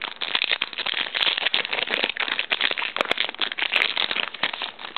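Foil wrapper of a Pokémon booster pack crinkling and tearing as it is opened: a dense run of crackles and sharp little clicks.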